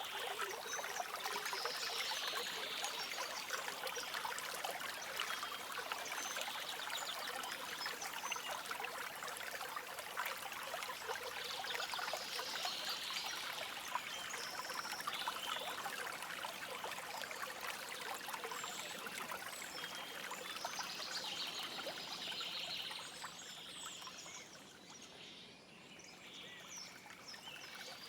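A stream trickling and flowing steadily, with birds calling in short bursts every few seconds. The water drops noticeably quieter for a few seconds near the end.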